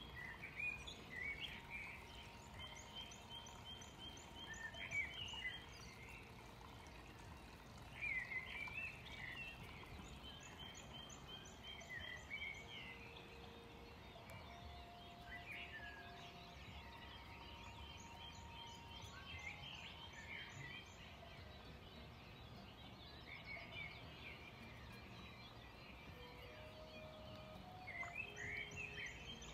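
A songbird singing the same short phrase again and again, roughly every seven or eight seconds: a few seconds of quick chirps with a fast, high trill, over a faint steady outdoor background.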